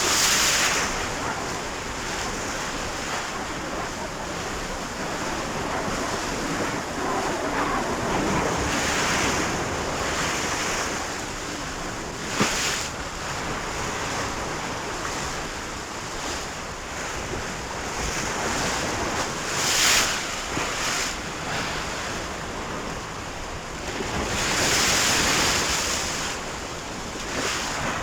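Sea waves and wind: a steady rush of water that swells into louder surges every several seconds, with one sharp slap about twelve seconds in.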